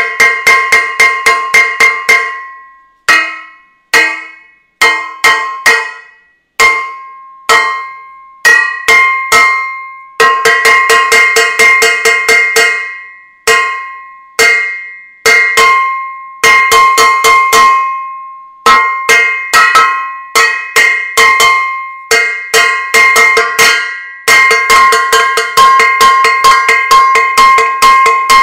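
Metal saucepan being banged repeatedly, each strike ringing. The blows come in fast runs broken by short pauses, with now and then a single strike left to ring and fade.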